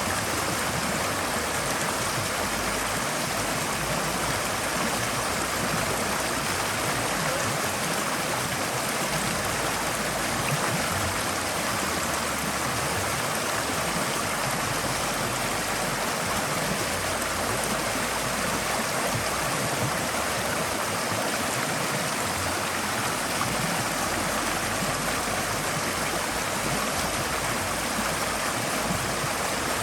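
Forest stream flowing over rocks, a steady rushing of water with light gurgling and no breaks.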